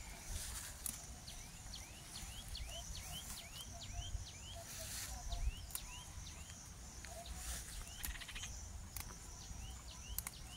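A bird calling a rapid series of short rising chirps, about three a second, that stops about two-thirds of the way through, over a low rumble. A few sharp clicks or rustles come near the end.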